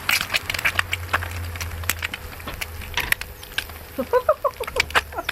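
An egg frying fast in hot oil in a pan on a portable induction hob, crackling and spitting with many sharp irregular pops. A low steady hum from the hob runs underneath.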